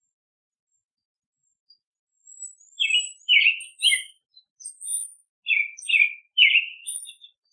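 Wild songbirds calling, starting about two seconds in: thin high notes over two runs of three harsher, louder chirps.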